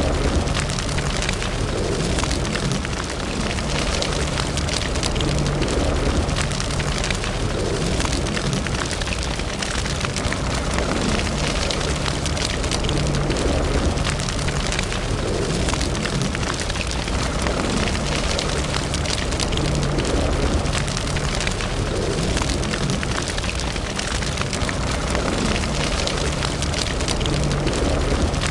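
Wood fire burning in a fireplace: steady crackling and small pops over a low rush of flame.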